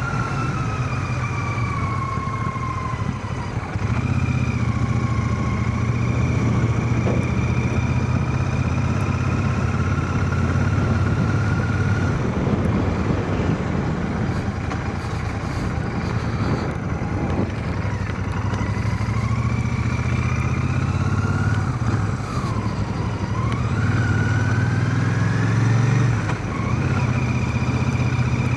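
Royal Enfield Shotgun 650's parallel-twin engine running on the road, heard from inside a full-face helmet, its pitch rising and falling a few times as the revs change.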